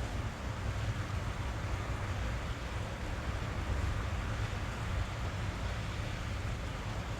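Steady rain on a car's roof and windows, heard from inside the cabin, with a low, even rumble underneath.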